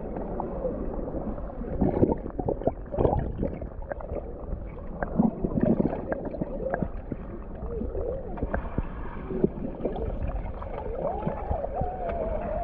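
Muffled river water gurgling and sloshing, with irregular small splashes and knocks. A wavering, muffled tone rises and falls near the end.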